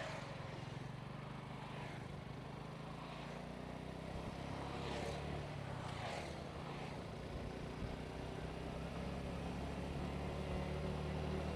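Motorcycle engine running steadily under way, heard from the rider's position with road and wind noise. It gets a little louder and deeper in the second half.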